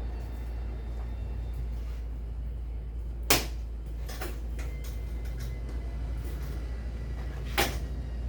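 Two sharp knocks, about four seconds apart, with a few fainter taps, over a steady low hum.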